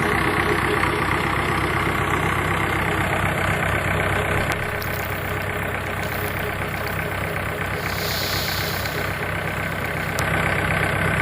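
Tractor diesel engine running steadily, easing off a little in the middle.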